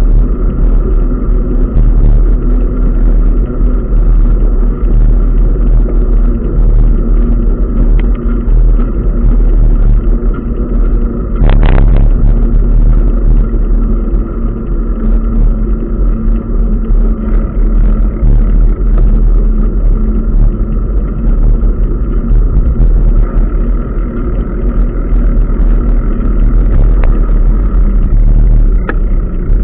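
Continuous wind and road noise from riding a bicycle, a heavy deep rumble with a steady hum above it. There is one brief, sharper sound about twelve seconds in.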